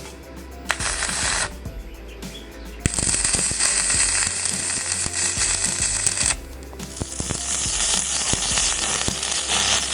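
Electric arc welding a steel pipe onto a steel flange plate: a crackling hiss in three runs, a short one about a second in, then two longer runs of about three and about four seconds.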